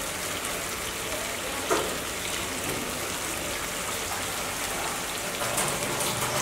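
Chicken pieces in a yogurt masala sizzling steadily in oil in a nonstick pan. The masala has been fried down until the oil has separated and risen to the top. One short knock comes about two seconds in.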